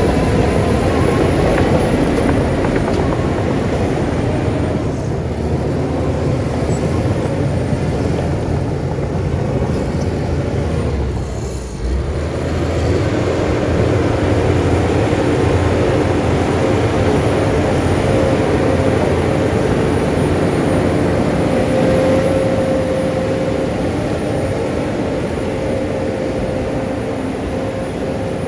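Heavy diesel earthmoving machinery running steadily under load, with a brief drop in level about twelve seconds in, after which a steady whine rises over the engine.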